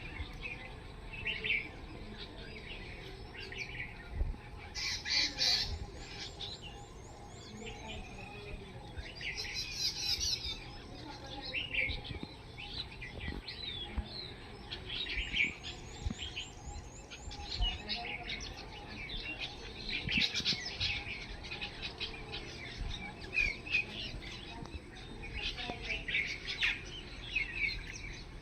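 Several small birds chirping and calling in short, irregular bursts of high notes.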